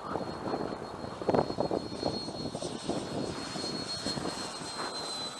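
High steady whine of a Freewing F-22 RC jet's 90 mm electric ducted fan in flight, dipping slightly in pitch near the end. Gusty wind buffets the microphone, hardest about a second and a half in.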